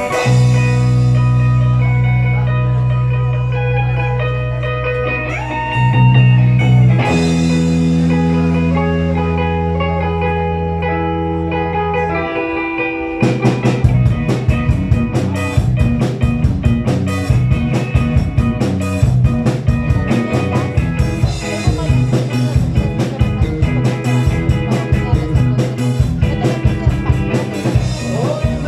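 Rock band playing an instrumental passage: held, ringing electric guitar and bass chords, then about 13 seconds in the drum kit comes in with a driving beat under the guitars.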